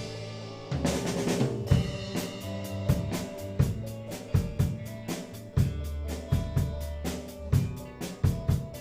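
A band playing a song on drum kit, bass and guitar. A held chord with a cymbal crash about a second in gives way to a steady beat of bass drum, snare and hi-hat under the bass and guitar.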